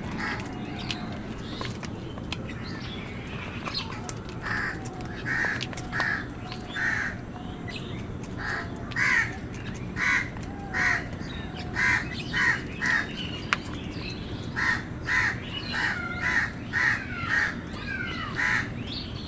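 Crows cawing over and over, about fifteen harsh caws in loose runs, with thinner chirps from other birds among them over a steady low background noise.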